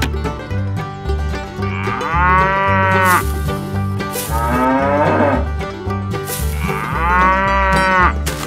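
Cow mooing, three long moos, laid over banjo-led background music.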